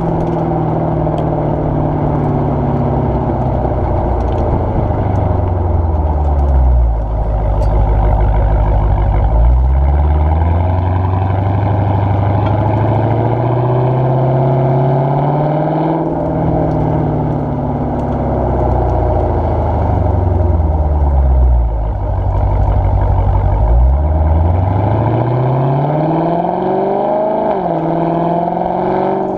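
Exhaust of a 2017 Dodge Challenger R/T 392's 6.4-litre HEMI V8 with the mid mufflers deleted and the resonators kept, heard while driving. The engine note sinks to a low steady drone, then climbs gradually as the car pulls through the revs. It drops back and the pattern repeats, climbing again near the end.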